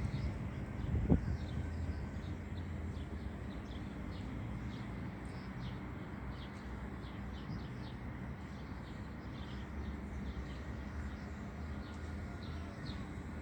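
Small birds chirping in quick, scattered calls over a steady low outdoor noise, with one short thump about a second in.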